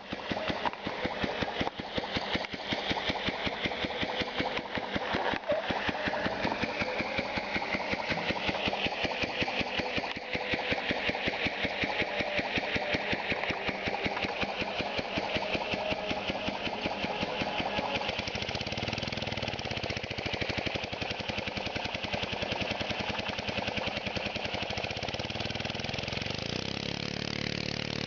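Homemade compressed-air piston motor running, its exhaust coming out as rapid, even pulses through a miniature straight-through muffler. Near the end the pitch rises and settles into a steadier hum as the motor picks up speed.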